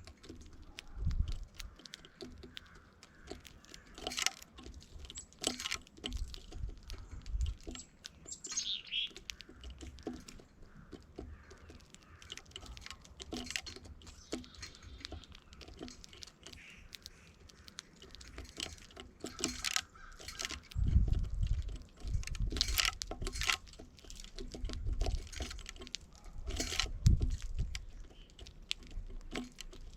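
Backyard birds calling and chirping now and then, with many short clicks and taps throughout. One call falls in pitch about eight seconds in, and low rumbling bursts come in the second half.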